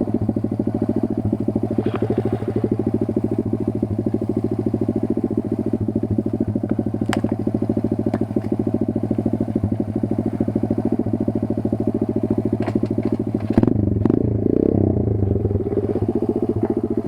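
Kayo 140 pit bike's single-cylinder four-stroke engine idling steadily. About three-quarters of the way through it turns briefly louder and rougher, with a few sharp clicks.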